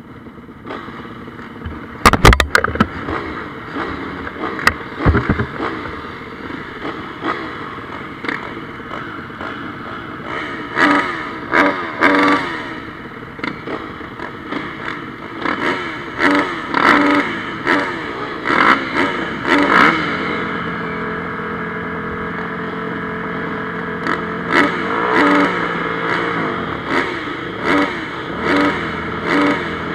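Several off-road motocross bikes racing, engines revving up and falling back repeatedly as riders accelerate and shift. A few sharp knocks about two seconds in are the loudest sounds.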